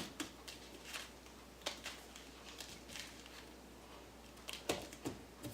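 Faint scattered clicks and taps of plastic bottles and containers being picked up, felt and set down on a table while slime ingredients are handled.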